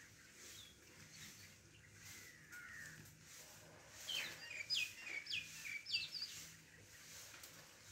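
Wild birds calling from the trees: a quick run of five or six short, sharp notes that each fall in pitch, between about four and six seconds in, with a few faint chirps before it.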